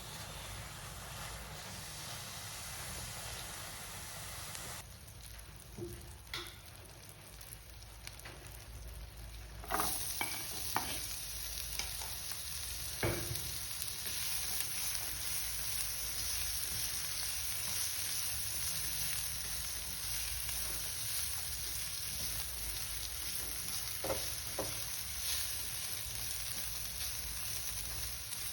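Food sizzling as it fries in a pan while being stirred, with a few short knocks of the utensil against the pan. The sizzle grows louder about ten seconds in.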